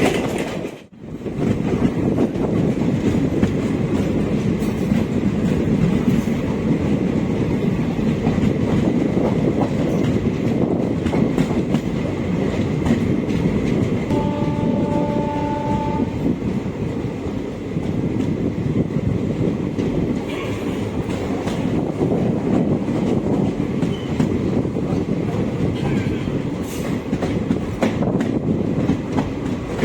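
Passenger express train running, with a steady rumble and clickety-clack of wheels on rail joints. About halfway through, the train's horn sounds for about two seconds.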